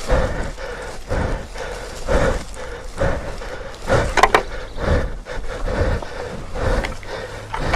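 A person breathing hard and heavily, about one breath a second, close to the microphone, with scuffing and rubbing of footing on dirt and brush in between. A short strained gasp comes about four seconds in.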